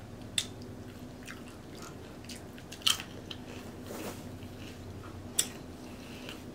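Close-miked chewing of crunchy nacho tortilla chips: a handful of sharp, irregularly spaced crunches, three of them loud, over soft mouth sounds.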